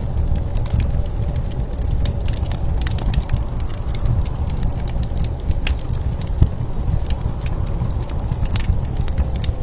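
Wood fire crackling with frequent irregular sharp pops, over a steady low rumble of blizzard wind.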